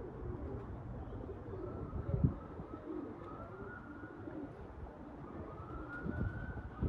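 Pigeons cooing, over a steady rumble of wind on the microphone, with a short thump about two seconds in.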